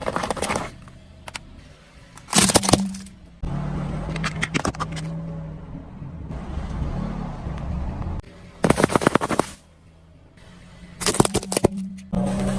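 Four loud bursts of crackling and crunching as a car's tyres roll over and crush brittle objects, with the car's engine running steadily between them.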